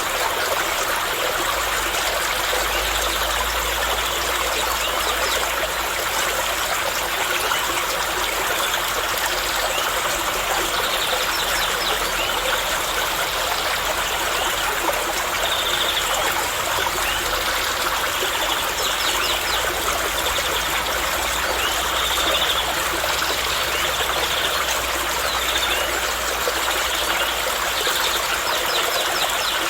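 Steady rush of flowing water, like a stream, running evenly throughout, with short faint high-pitched sounds every few seconds above it.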